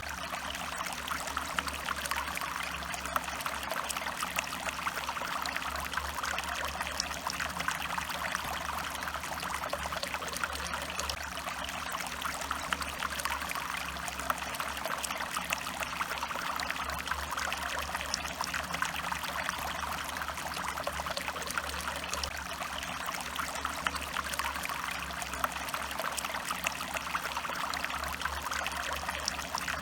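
A stream flowing steadily, water trickling and babbling over stones with a continuous rush and fine splashes.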